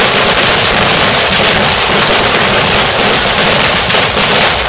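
Fireworks going off in a dense, rapid run of crackles and bangs, loud and continuous without a break.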